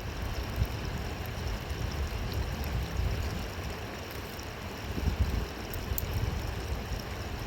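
River water rushing: a steady noise with a fluctuating deep rumble underneath.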